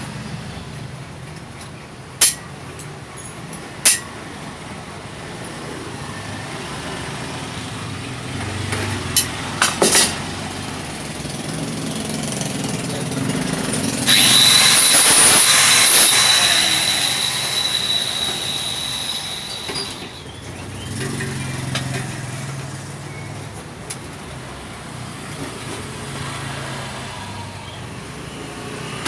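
Exhaust-workshop work sounds: a few sharp metal knocks, then a loud hissing stretch of about six seconds with a high steady whine in it, over a low background hum.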